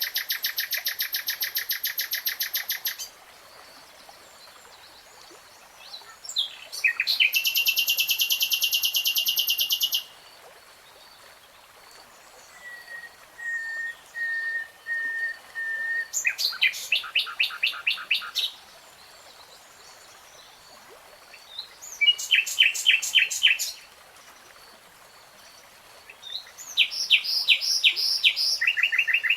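Nightingale singing: separate phrases of fast repeated high notes, each lasting two to three seconds with pauses of a few seconds between them, and one phrase of soft, level whistled notes about halfway through.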